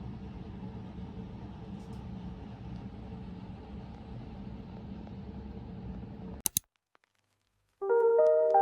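A steady low rumble of a vehicle running, with a faint hum, cut off after about six seconds by two sharp clicks. After a second of silence, soft piano music starts near the end.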